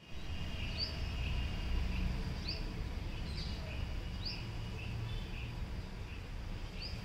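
Small birds chirping: short rising chirps every second or so, with faint trills between them, over a steady low rumble.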